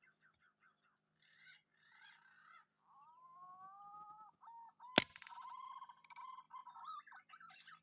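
Forest birds calling with whistled, rising notes, then about five seconds in a single sharp air-rifle shot, by far the loudest sound, followed by more bird calls. A steady high-pitched whine runs underneath.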